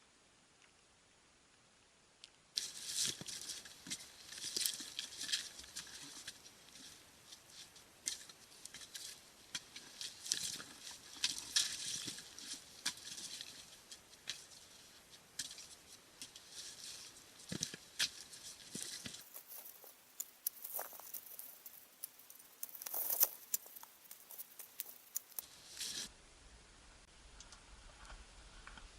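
Scratchy crunching and crackling with many sharp clicks and an occasional knock, starting after a couple of seconds of near silence and changing abruptly a few times.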